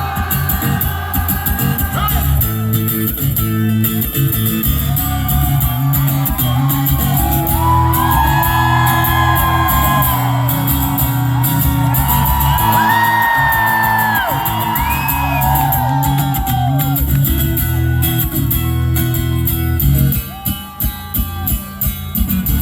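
Live guitar-driven rock song in an instrumental break. Steady chords play under a lead melody of bending, sliding notes in the middle, and near the end the chords turn choppy, stopping and starting.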